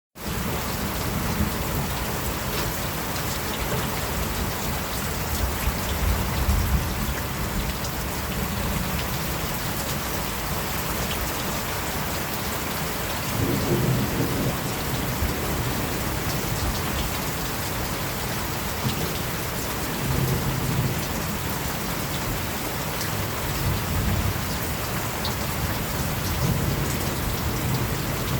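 Steady rain falling, with several low, soft rumbles of distant thunder swelling and fading every few seconds.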